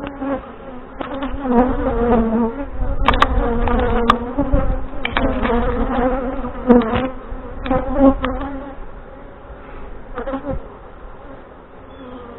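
Honey bees buzzing in a steady hum around an opened hive, broken by several sharp clicks and knocks in the first eight seconds; the hum grows quieter over the last few seconds.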